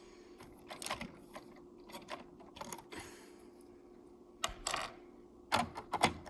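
Plastic LEGO train parts clicking and rattling as they are handled, with scattered small clicks and a few louder clacks near the end, over a faint steady hum.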